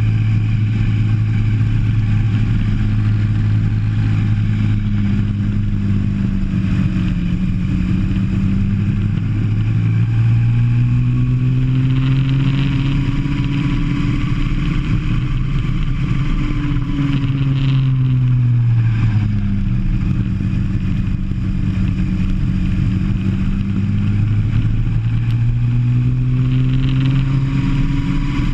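Go-kart engine heard from on board the kart, running hard. Its pitch holds fairly steady at first, climbs through the middle, drops sharply about 19 seconds in as the kart slows for a corner, and climbs again near the end.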